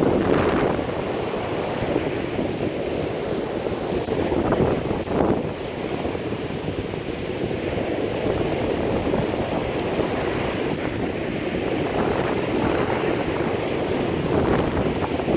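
Strong hurricane wind buffeting the microphone in a continuous low rumble, mixed with heavy surf breaking, with stronger gusts near the start and about five seconds in.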